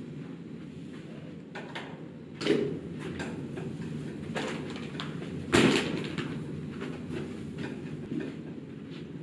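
Knocks and bumps of things being handled, with two louder thumps about two and a half and five and a half seconds in, over a steady low hum.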